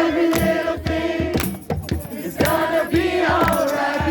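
A group of voices singing a song together, holding long notes, with drums struck along to the singing.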